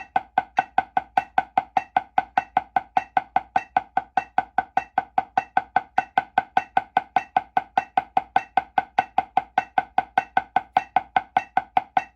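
Drumstick strokes played one-handed in even triplets at 100 bpm, about five strokes a second, each a short ringing tick. This is a finger-control exercise with the left hand, working index, middle finger and thumb in turn.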